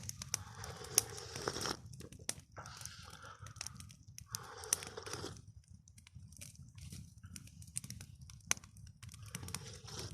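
Wood campfire crackling with scattered sharp pops, mixed with short bursts of rustling or crunching in the first half.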